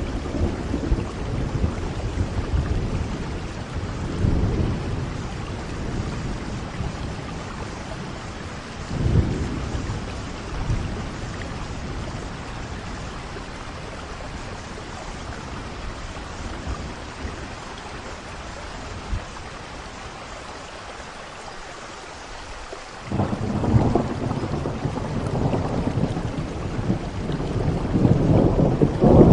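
Steady rainfall with rolling thunder: low rumbles in the first ten seconds, a calmer stretch of just rain, then a sudden thunderclap about two-thirds of the way in that rolls on and grows louder toward the end.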